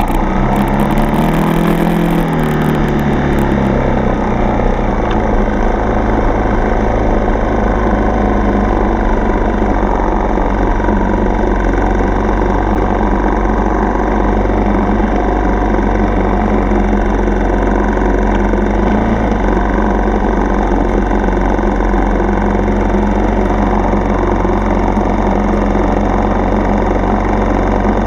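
Single-cylinder four-stroke dirt bike engine running under way. Its pitch rises and falls over the first few seconds as the throttle changes, then holds steady at a cruising pace.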